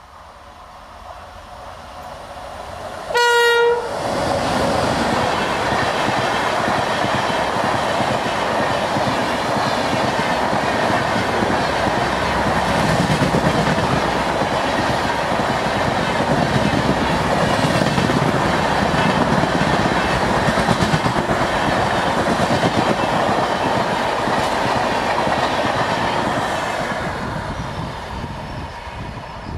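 An electric locomotive's horn gives one short blast about three seconds in, as a high-speed express comes out of the fog. The train then rushes past with continuous loud wheel and rail noise for over twenty seconds, fading near the end as it moves away.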